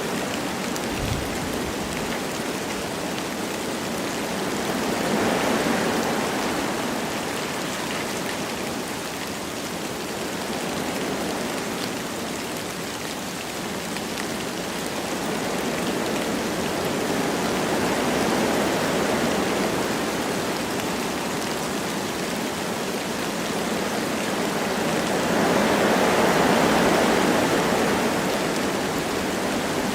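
Wind blowing through forest trees with light rain falling, a steady rushing that swells in slow gusts, the strongest near the end.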